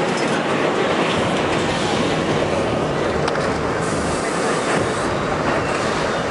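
R68 subway car running along the track, a steady loud rumble and rattle of wheels on rail with a few sharp clicks over rail joints.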